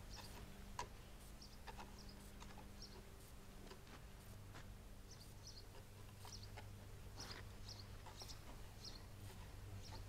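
Quiet outdoor ambience: scattered short, faint bird chirps over a faint steady low hum that grows slightly stronger about four seconds in.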